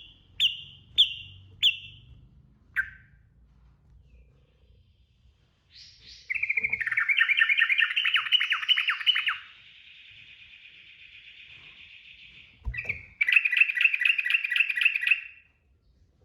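Yellow-vented bulbul (trucukan) calling. It gives five short sharp chirps in the first three seconds, then a loud rapid chattering trill about six seconds in. A softer steady note follows, then a second rapid trill near the end.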